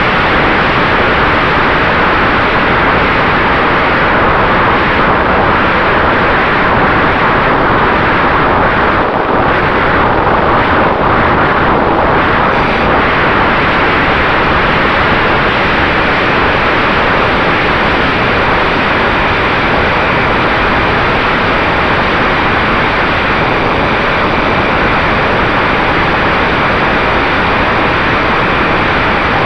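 Loud, steady rush of wind noise with a faint steady tone under it, from a Mini Talon radio-controlled plane's electric motor and propeller.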